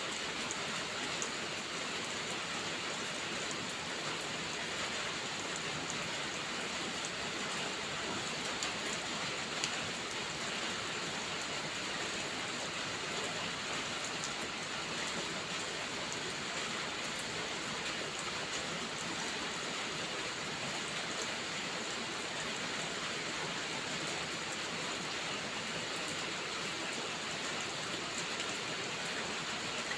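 Steady heavy rain hissing without a break, with many small sharp crackles and ticks scattered through it, a few standing out a little louder, like the pops of a wood fire burning in a fireplace.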